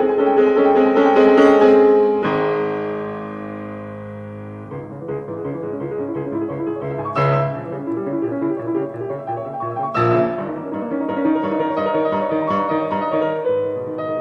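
Background piano music: chords that fade to a quieter passage, then quicker runs of notes from about five seconds in.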